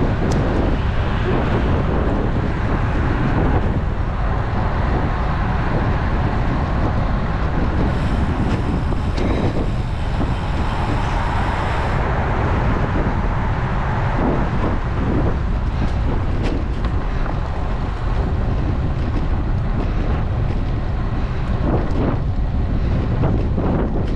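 Wind rushing over the microphone of a bike-mounted action camera while riding: a steady, loud low rumble with road noise beneath it.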